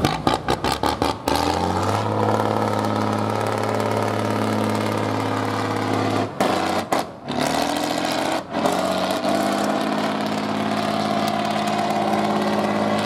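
A competition truck's diesel engine revving hard under load: after a choppy first second the revs climb and hold steady at a high pitch, with brief lifts of the throttle about six and eight seconds in.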